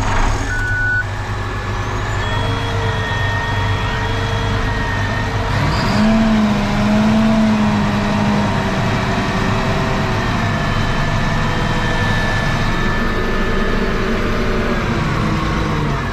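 Large farm tractor's diesel engine on a restart attempt after it was run out of fuel and refuelled: it cranks and runs with a wavering pitch. About six seconds in, the engine note steps up and gets louder.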